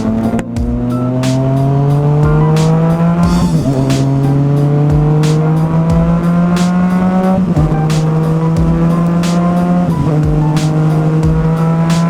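Yamaha FZ-09's inline-three engine with a full M4 exhaust, pulling hard through the gears. The engine note climbs steadily, then drops at three upshifts, about 3.5, 7.5 and 10 seconds in.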